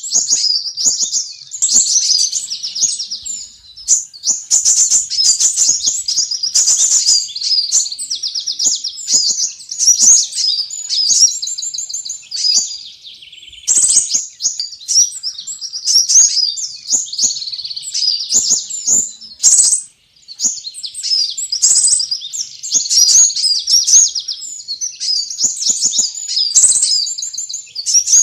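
Sunbirds calling on a bird-lure recording: dense, rapid, high-pitched chirping and twittering trills, nearly continuous with brief lulls about halfway through and again about two-thirds of the way in.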